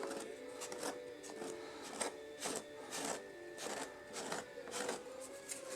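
Faint, short scraping strokes, about two a second, from hand work on glued cork roadbed and plaster cloth, with a faint steady hum behind.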